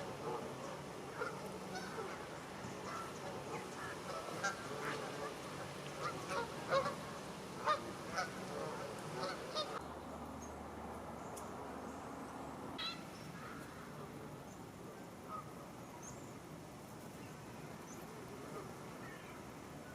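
Geese honking: a busy run of short calls for about the first ten seconds, then only a few scattered calls after the background changes abruptly.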